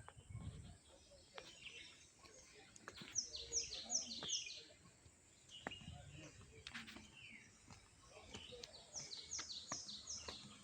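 A songbird singing a short phrase of four or five quick, high, falling notes, heard about three seconds in and again near the end.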